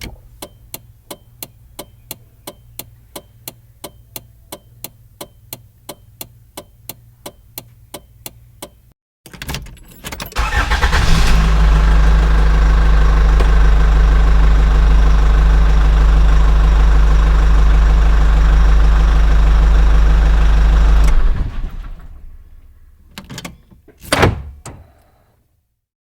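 Isuzu C240 four-cylinder diesel engine: a regular tick about three times a second over a low hum, then after a short break the engine runs loud and steady for about ten seconds before dying away. Two knocks follow near the end.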